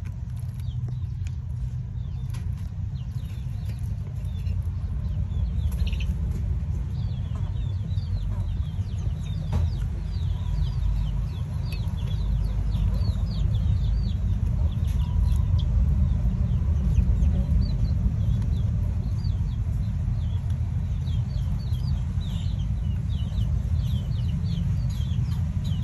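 Birds chirping: many short, high, falling notes in quick succession from about six seconds in, over a steady low rumble.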